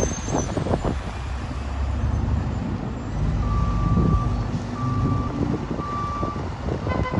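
A truck's reversing alarm beeping three times, each beep held most of a second, over the low running of its engine, with a steady hiss of rain and wind behind.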